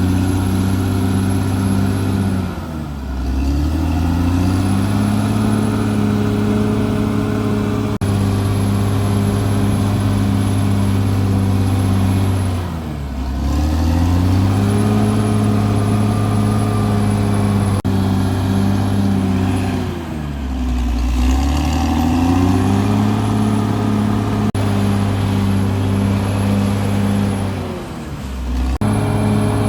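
CAT D6R bulldozer's diesel engine running hard, its pitch sagging and climbing back four times, about every seven to eight seconds.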